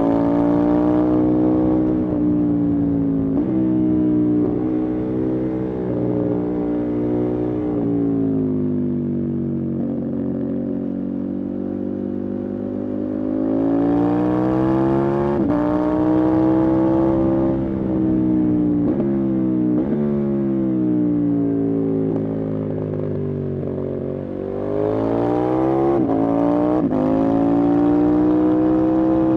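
Motorcycle engine under way, its note sinking and climbing with road speed, with several brief breaks in the note as it is shifted through the gears.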